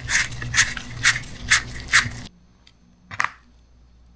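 Quick scrubbing strokes on crusted, graphite-dusted parts of an outboard trim motor, about five strokes at roughly two a second over a low steady hum. Both stop suddenly about two seconds in, followed by a single sharp click.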